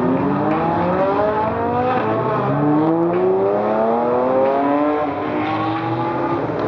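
Supercar engine accelerating hard on track, its pitch climbing through the revs and dropping back at upshifts about two seconds and five seconds in.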